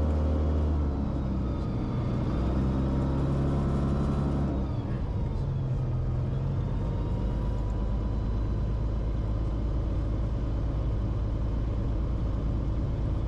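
Cessna Corvalis TTX's turbocharged six-cylinder engine and propeller running at low power on the ground. The engine note drops about a second in and again around four and a half seconds, with a brief falling whine, then settles into a steady idle.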